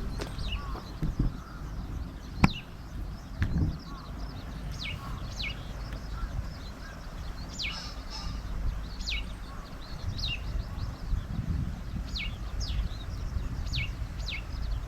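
A bird calling over and over: short high whistles that slide steeply down in pitch, often in pairs, about one every second or so. A single sharp click about two and a half seconds in, over a low rumble.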